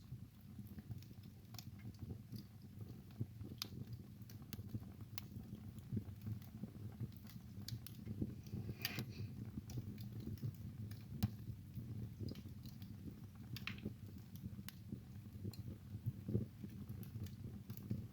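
Wood fire in a fireplace crackling: irregular sharp pops and snaps over a low, steady rumble of burning.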